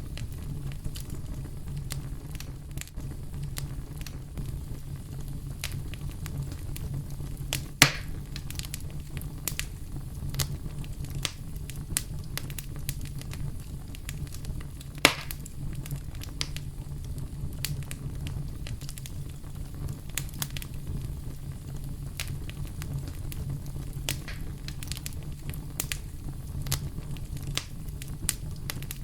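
Campfire crackling with scattered small pops, and two louder snaps about 8 and 15 seconds in, over a steady low brown noise.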